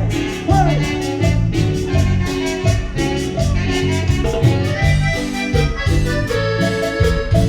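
Latin band music, an instrumental passage with a steady dance beat: bass and drums under a sustained, accordion-like lead melody.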